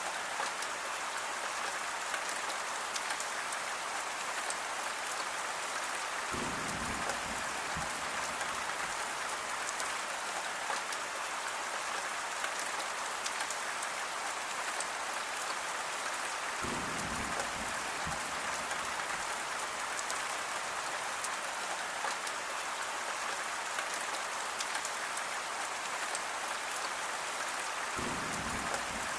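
Steady rain falling on a surface, an even hiss of many drops. A short low rumble swells and fades three times, about ten seconds apart.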